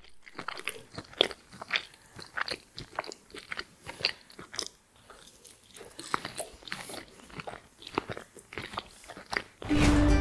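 Close-up eating sounds: a person biting and chewing crispy french fries, with repeated irregular crunches. A louder burst of noise comes near the end.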